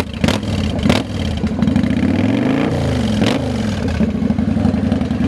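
Kawasaki Vulcan 900 V-twin with a Cobra exhaust idling, then revved once: the pitch climbs for about a second and falls back to a steady idle. There are two short sharp sounds in the first second.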